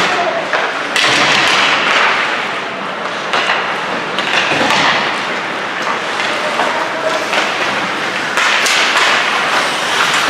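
Ice hockey play echoing around a rink: repeated thuds and taps of sticks, puck and boards over a steady wash of arena noise.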